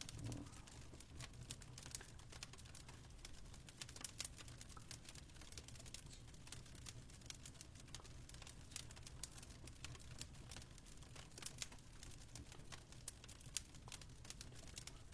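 Faint crackling of a wood fire: irregular sharp snaps and pops over a low steady rumble, with one louder snap near the end.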